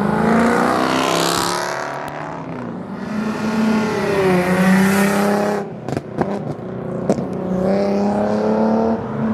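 Cars revving and accelerating past one after another, the engine pitch climbing and falling, with a rush of exhaust noise in the middle and a few sharp cracks just after it.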